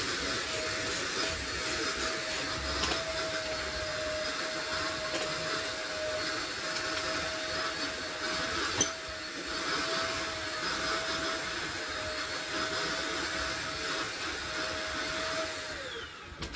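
A small motor runs steadily with a constant whine over a hiss, with a couple of sharp clicks. Near the end it is switched off and the pitch falls as it spins down.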